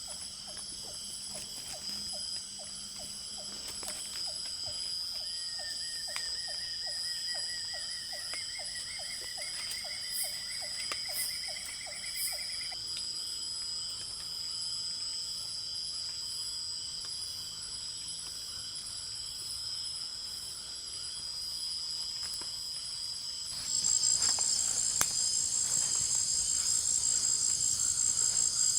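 Tropical forest insect chorus, a steady high-pitched shrilling. Over the first dozen seconds a low call pulses about two or three times a second, and a rapid trill climbs slowly in pitch. About three-quarters of the way through, a louder high insect chorus starts abruptly and carries on.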